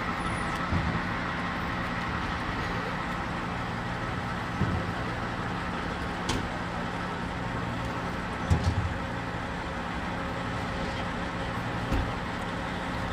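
A vehicle engine idling steadily, with a few short knocks now and then.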